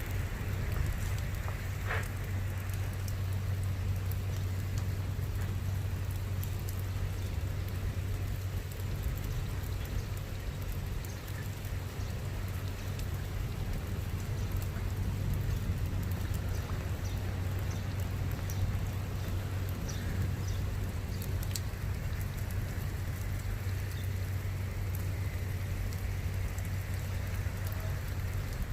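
Light rain falling, with scattered drops ticking sharply near the microphone, over a steady low hum.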